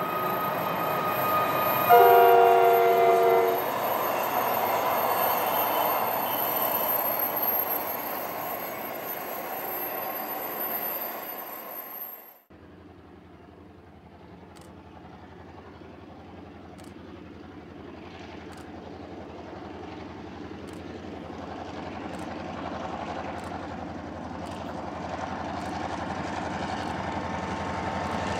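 Passenger train running past, with its diesel locomotive's horn sounding one multi-note chord for about a second and a half, about two seconds in. After an abrupt cut, a second diesel locomotive hauling passenger cars runs toward the listener, its engine hum growing steadily louder.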